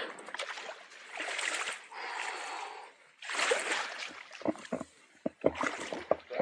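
Water splashing in several noisy bursts, with a run of short knocks about two-thirds of the way through.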